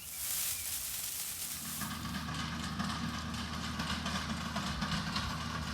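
A hissing, rustling noise, then from about two seconds in an engine running steadily at an even speed.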